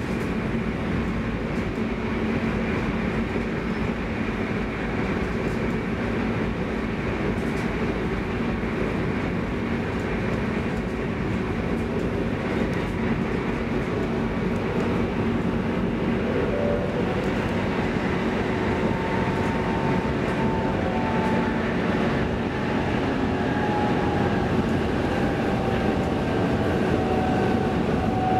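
Stockholm commuter rail X10 electric multiple unit running at speed, heard inside the passenger car: a steady rumble of wheels on rails. In the last third a faint whine comes in and slowly falls in pitch.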